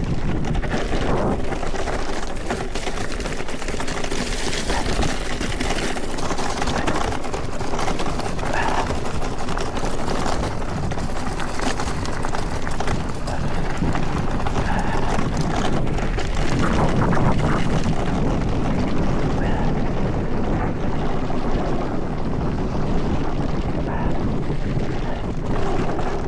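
Mountain bike descending a rough trail at speed: a continuous rush of wind over the microphone, with tyres rolling over dirt and stones and the bike's chain and frame rattling over bumps.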